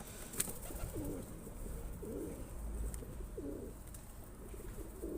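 Pigeons cooing: a run of low, rising-and-falling coos about a second apart, with a single sharp click about half a second in.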